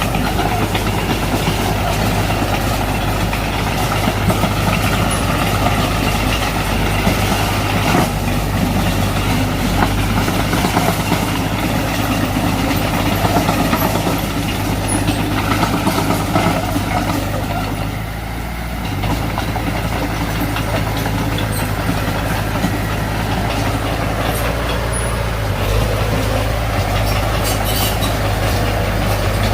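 Heavy diesel earthmoving machinery, a bulldozer at work, running steadily with a deep engine drone. It eases briefly about eighteen seconds in.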